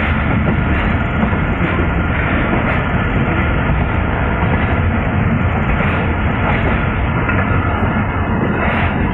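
Passenger train coach running along the track, heard at its open door: a steady rumble and rattle of wheels on rails.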